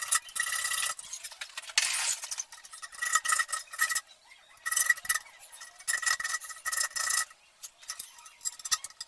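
A hand tool scraping and rasping against the thin metal of a home-made safe as it is worked open, in about six separate stretches of strokes with a thin metallic squeal.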